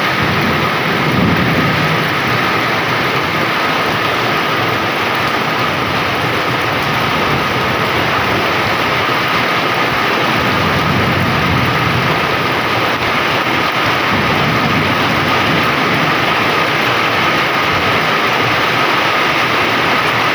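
Heavy rain pouring down in a steady, loud downpour. Low rumbles swell up about a second in and again about halfway through.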